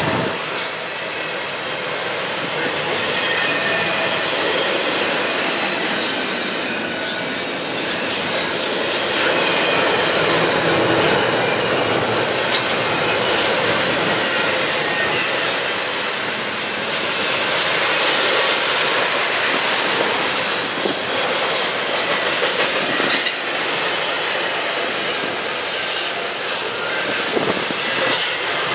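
Double-stack container well cars rolling past at close range: a steady rolling rumble of steel wheels on rail. Thin high wheel squeal comes and goes, and there are a few sharp clanks, the last one near the end.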